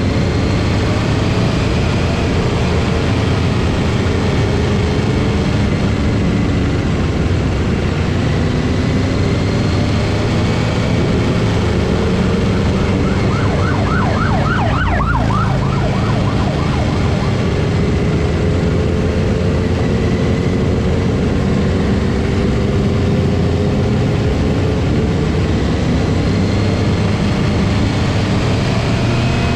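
Motorcycles riding in a group, a steady rumble of engines and wind noise, with a police escort siren wailing in slow rising and falling sweeps. About halfway through, the siren switches briefly to a fast yelping warble.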